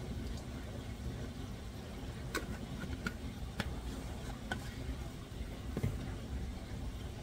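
Diced potatoes and onions frying in vegetable oil in a stainless steel pan: a steady low sizzle with a few scattered pops and crackles.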